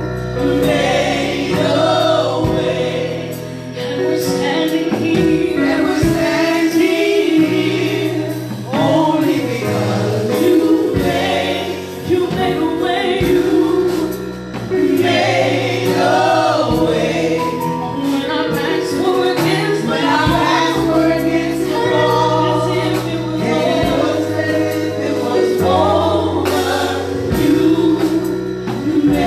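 Gospel choir singing a worship song over instrumental backing, with steady held bass notes under the voices.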